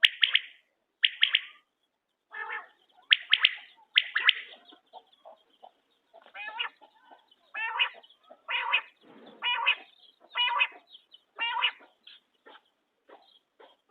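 Quail calling: short, clear calls repeated roughly once a second, some in close pairs, with fainter short notes between them near the end.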